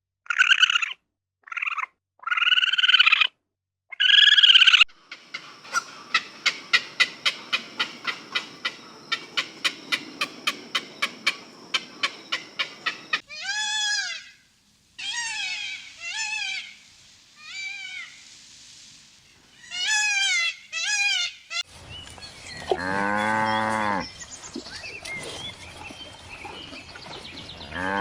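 Young farm animals calling, one after another. First come short high-pitched calls, then a fast run of clicking calls and short falling chirps. Near the end there is a long, low, drawn-out call from a young livestock animal, heard twice.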